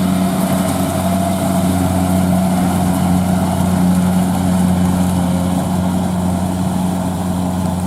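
Combine harvester's diesel engine running steadily, with a constant low hum.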